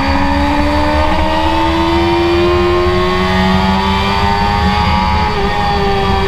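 BMW S1000RR's inline-four engine at high revs under hard acceleration, its pitch climbing slowly. The pitch dips slightly about five seconds in and eases off near the end.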